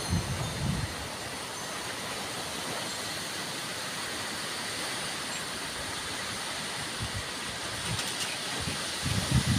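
Strong wind blowing with a steady rushing hiss. Low gusts buffet the microphone in the first second and again near the end.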